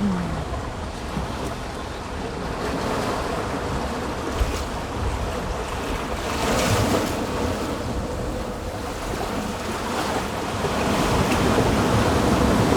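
Ocean surf washing onto a sand beach, a steady rush of waves that swells about six seconds in and again near the end, with wind buffeting the microphone.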